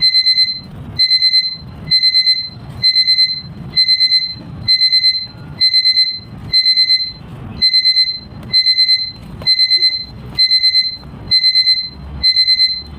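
Electronic alarm beeping in quick groups of about four beeps, the groups repeating a little under once a second without a break.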